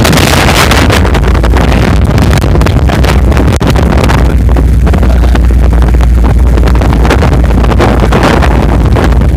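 An off-road vehicle's engine and ride rumbling while wind buffets the microphone, very loud, with constant crackling.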